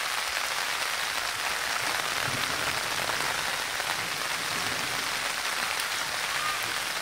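Heavy rain pouring steadily: a dense, even hiss of downpour.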